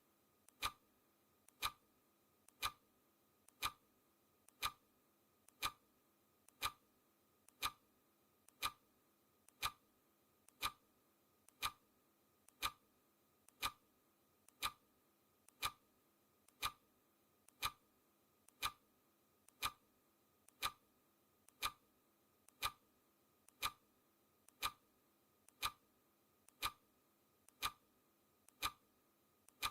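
Clock ticking steadily once a second: a sharp click each second, with a fainter click just before each one.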